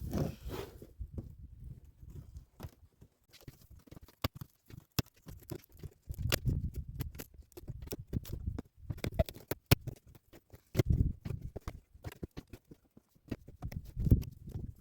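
Irregular scraping, clicking and knocking as a pipe is pushed and worked through a tight hole cut in the trailer wall, with low handling thumps between.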